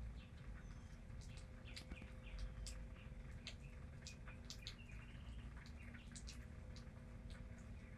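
Rainwater from a thunderstorm dripping in scattered, irregular ticks, with a few faint short high chirps mixed in, over a low steady rumble.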